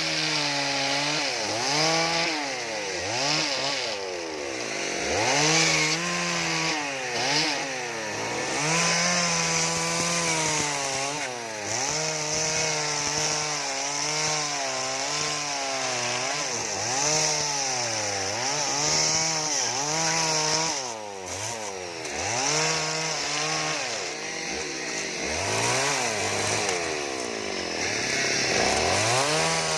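Chainsaw carving wood, its engine revving up and dropping back again and again as the cuts are made, settling briefly between cuts.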